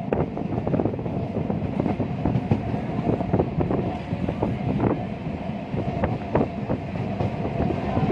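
Passenger train running along the line: a steady rumble of the carriage with frequent irregular knocks and rattles from the wheels and coach.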